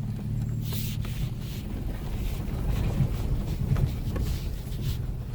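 Toyota Tacoma pickup's engine running steadily at low revs as the truck crawls along a rocky trail, with scattered short knocks and rattles.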